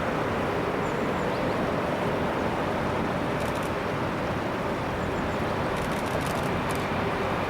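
Train running with a steady rumble of wheels and rail noise and a few faint high ticks.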